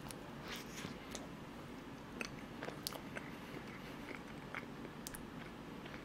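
A person chewing a bite of cream-filled croissant, with faint, scattered small mouth clicks and smacks.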